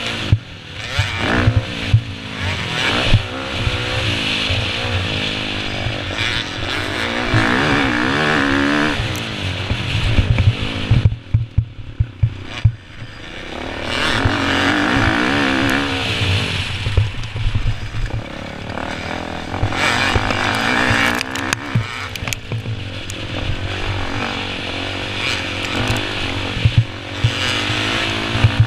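Motocross dirt bike engine revving up and down over and over as the throttle opens and closes, with a short drop-off about eleven seconds in. Low thumps and rumble run underneath.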